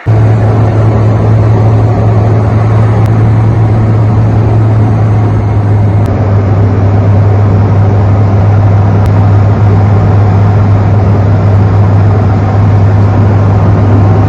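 Light aircraft's piston engine and propeller heard loud inside the cockpit: a steady, unchanging drone with a strong low hum.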